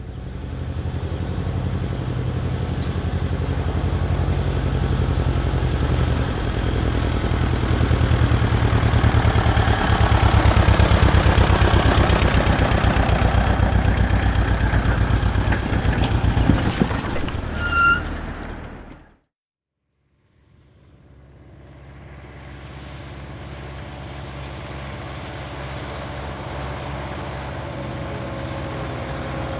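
Heavy truck engine running steadily, growing slightly louder, then cutting off abruptly about two-thirds of the way through. After a second of silence another engine fades in and runs at idle.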